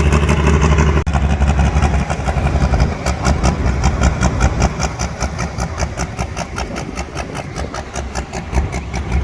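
Pulling tractor's engine running at low revs as it comes out onto the track. A strong low note in the first second gives way to a steady, even pulsing beat.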